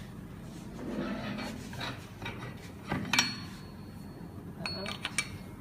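Metal parts of a Hydramatic automatic gearbox clinking and knocking together as they are handled and fitted onto the assembly. One sharp clink about three seconds in rings briefly, and a few lighter clicks come near the end.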